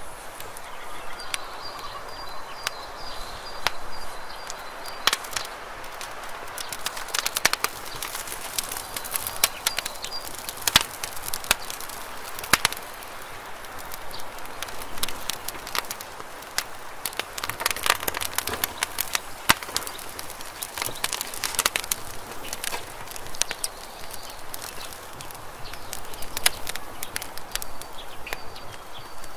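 Campfire of burning wood crackling, with irregular sharp pops and snaps over a steady hiss. A faint, thin high tone sounds through the first third.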